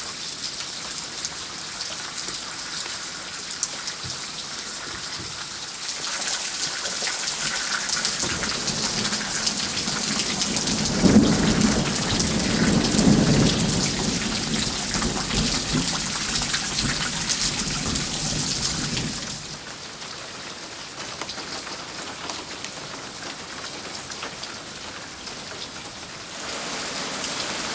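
Rain falling steadily, growing heavier partway through. A long rolling rumble of thunder builds, peaks near the middle and fades, and then the rain eases off.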